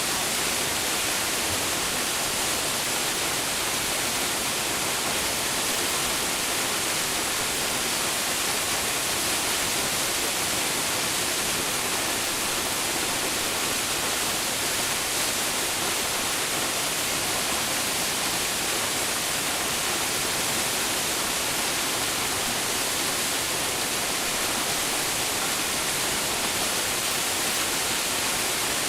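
Waterfall: water falling and splashing in a steady, unbroken rush, with a lot of hiss.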